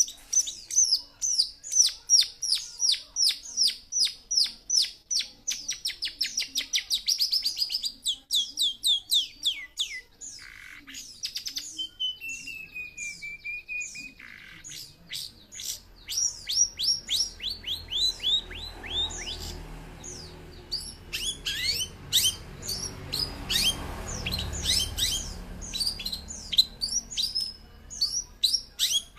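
Young long-tailed shrike (cendet) singing a varied song full of mimicked phrases: rapid runs of sharp, falling notes that crowd closer together, a wavering whistle near the middle, then more fast chattering notes. A faint low rumble sits underneath in the second half.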